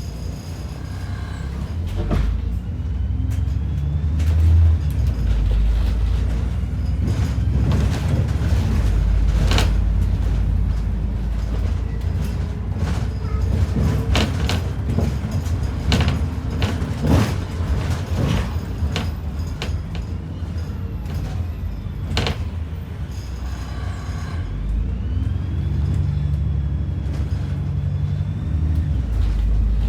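ADL Enviro 400 double-decker bus running, heard inside: a low diesel engine rumble with many knocks and rattles from the bodywork and fittings. The engine builds up about two seconds in, eases back around three-quarters of the way through and picks up again near the end.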